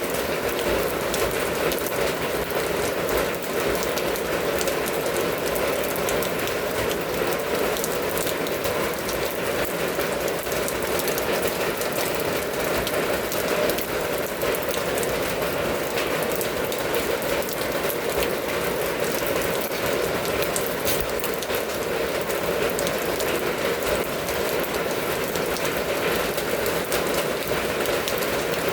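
Steady rain falling and pattering on a surface, an even wash of sound dense with individual drop ticks.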